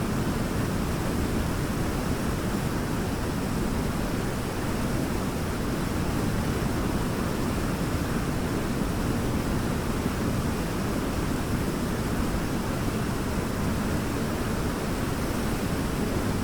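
Waterfall rushing steadily, with the deep, even roar of falling water.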